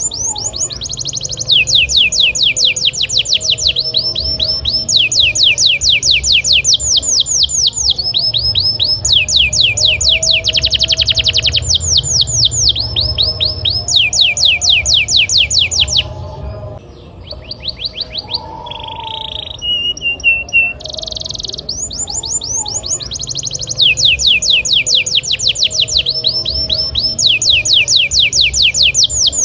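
Domestic canary singing rolling trills: long runs of rapid, evenly repeated falling notes that change speed and pitch from phrase to phrase, with a short quieter break a little past the middle.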